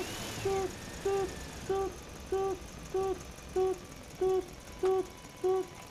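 Reversing-alarm style beeping for a toy dump truck unloading: nine short, even beeps at one steady pitch, about 0.6 s apart.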